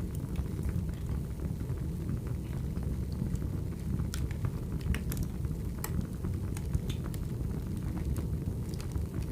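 Wood fire burning: a steady low rumble of flames with scattered, irregular sharp crackles and pops from the burning logs.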